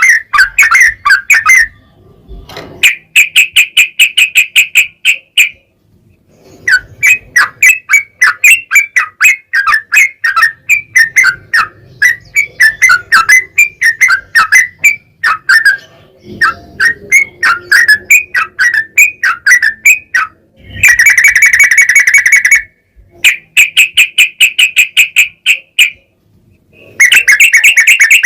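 Yellow-vented bulbul song: fast runs of loud, sharp chattering notes in phrases a few seconds long, broken by short pauses, with a couple of dense, even trills in the second half.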